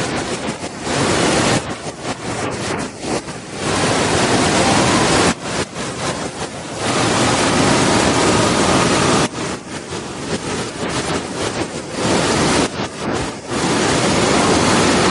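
Waterfall water crashing down, a dense rushing noise that swells and drops in loudness every few seconds.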